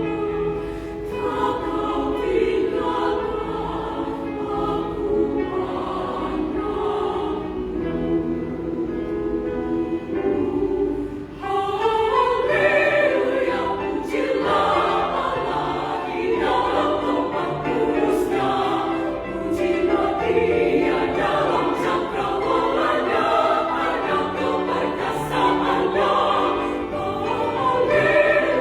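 Women's choir singing in several parts, with long held notes at first; about eleven seconds in the singing briefly drops away, then comes back louder and fuller.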